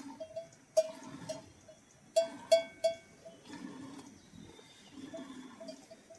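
Livestock bell clinking irregularly, as if on a moving animal, with a few louder, ringing strikes about two to three seconds in.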